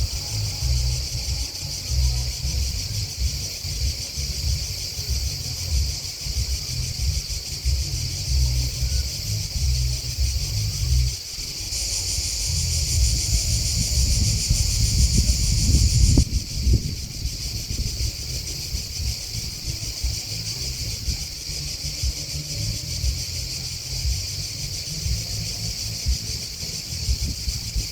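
Steady high-pitched chorus of singing insects, the grasshoppers and crickets of a field, with a louder stretch about halfway through. An uneven low rumble runs underneath.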